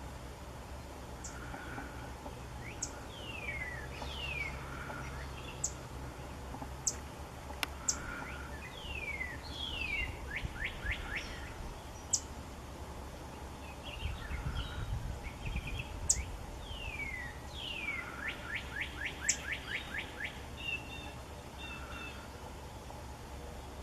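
Songbirds singing: clear whistled notes that slide downward, some phrases ending in a quick run of rapid falling notes, with short sharp high chips scattered between. A faint low rumble lies underneath.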